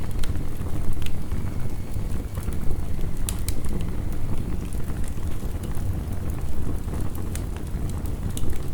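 Crackling wood fire, with sharp irregular pops every second or so, over a steady deep rush of heavy rain.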